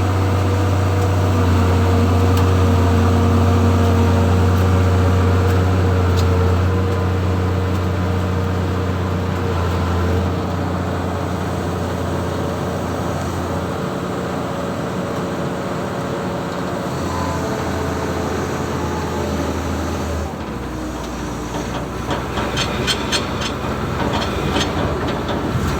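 An engine running steadily with a low drone. About twenty seconds in it drops to a lower hum, and a quick run of ticks follows near the end.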